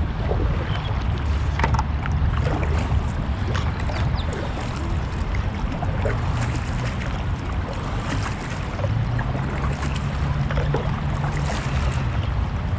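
Jet ski engine running steadily while underway, with a low drone that shifts pitch about nine seconds in, over water spray and wind on the microphone.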